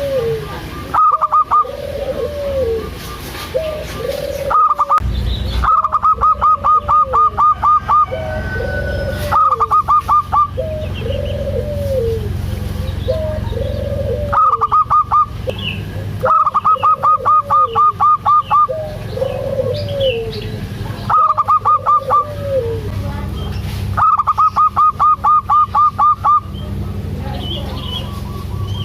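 Zebra dove (perkutut) calling loudly. A rounded note rises and falls about once a second, and every few seconds comes a fast train of sharp, higher staccato notes lasting one to two seconds.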